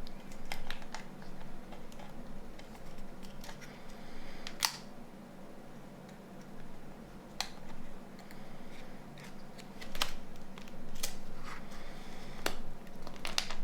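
Scattered small clicks and taps of plastic phone parts being handled and pressed into place during reassembly of a Nokia 9210, over a steady low hum.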